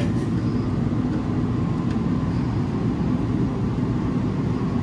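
Steady low mechanical rumble with no breaks.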